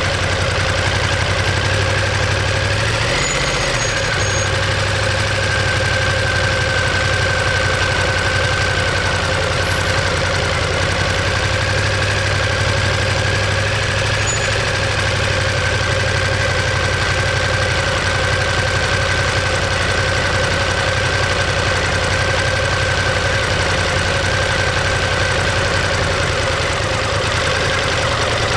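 Ducati Monster 1200S's 1198 cc L-twin engine and exhaust running at a steady, even pitch. The pitch rises briefly about three seconds in.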